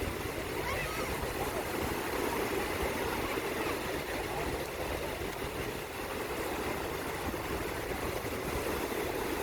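Steady rushing noise of the sea at a beach, without distinct breaking waves, along with a low rumble.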